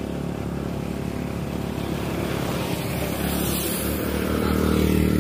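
A motor vehicle's engine running steadily, growing louder over the last couple of seconds as it comes closer.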